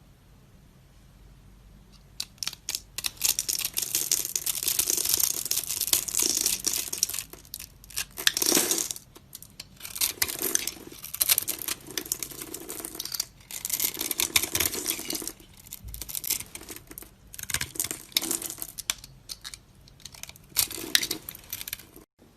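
Dry soap crunching and crackling as a blade cuts or scrapes through it, in a series of strokes each a second or two long with short pauses between.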